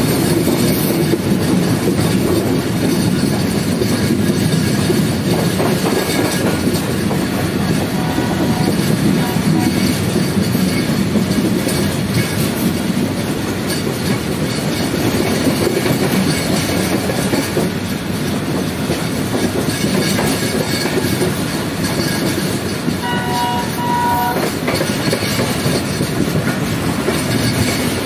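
Passenger train running steadily along the track, heard from on board: the even noise of wheels on rails and the moving carriage. A short pitched tone in two parts sounds about 23 seconds in.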